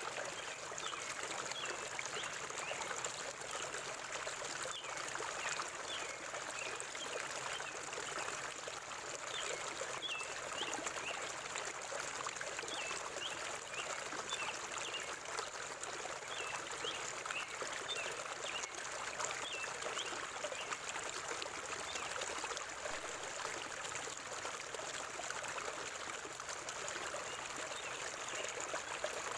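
A forest river flowing with a steady rushing sound, with small birds chirping in short, high, repeated notes through the first two-thirds.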